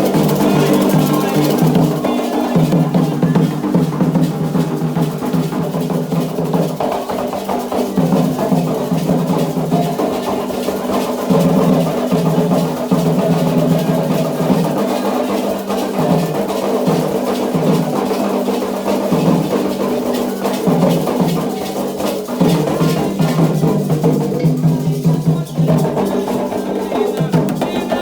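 Candomblé ritual drumming: atabaque hand drums beaten in a fast, dense, unbroken rhythm, with sustained musical tones underneath.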